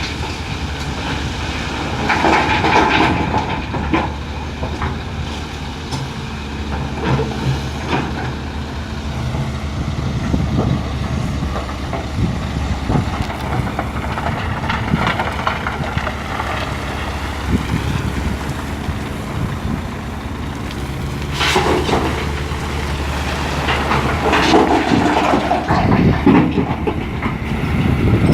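Hitachi EX450LC-5 excavator's diesel engine and hydraulics working steadily under load while loading a dump truck. Loads of limestone rock crash and clatter into the truck's bed about two seconds in, again around twenty-one seconds, and over several seconds near the end.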